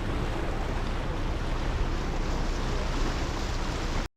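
Steady rush of wind and water on a moving boat, with wind buffeting the microphone; it cuts off abruptly near the end.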